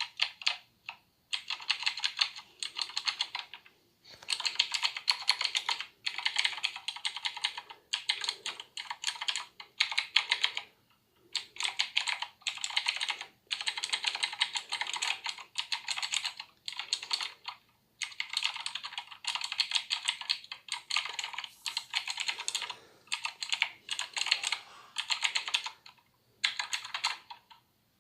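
Typing on a Razer BlackWidow Ultimate 2016 mechanical keyboard: fast runs of key clicks in bursts of a second or more, broken by short pauses.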